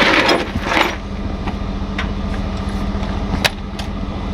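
Heavy truck diesel engine idling steadily, with a loud hiss in the first second and a few sharp metallic clicks later on.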